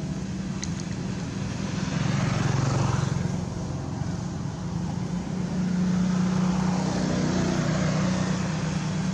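A motor engine running steadily, its hum swelling twice, with a brief click about a second in.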